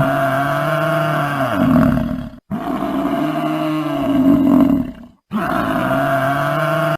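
Buffalo bellowing: three long, low calls of about two and a half seconds each, separated by brief breaks.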